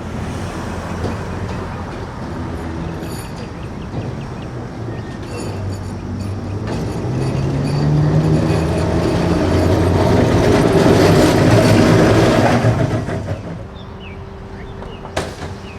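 Streetcar passing: a rumble of wheels on rail with a low motor tone rising slightly in pitch, growing louder to a peak about twelve seconds in, then falling away quickly. A single sharp click near the end.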